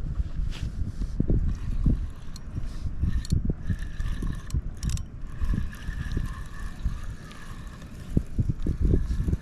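Fishing reel being cranked, a steady whirr of its gears with a few clicks, over low wind and water buffeting on the kayak.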